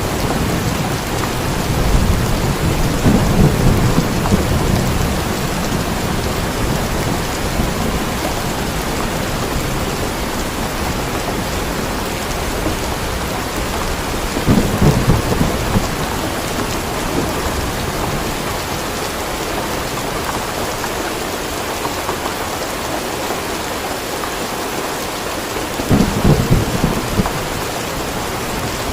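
Steady heavy rain with rolls of thunder: a long low rumble in the first few seconds, then shorter ones about halfway and again near the end.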